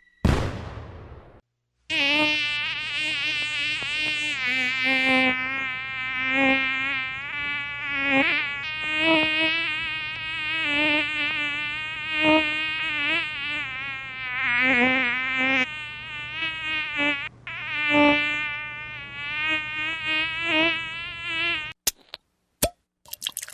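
A flying insect buzzing, its pitch wavering up and down as it moves about, for about twenty seconds. A short burst of noise comes just before it, and a few sharp clicks follow it near the end.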